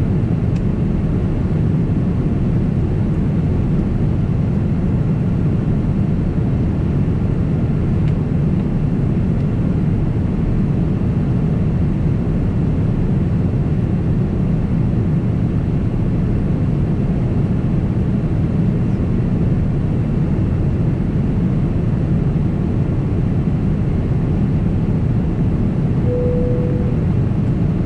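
Steady cabin noise inside a Boeing 767 in flight: a constant low rumble of engines and airflow. Near the end a brief single tone sounds for about a second.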